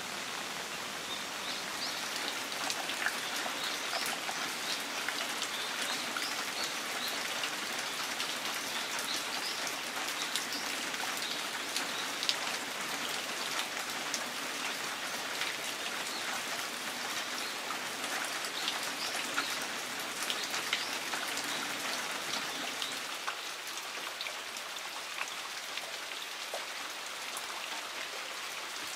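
Steady rain falling on garden plants and ground, with many individual drops ticking close by.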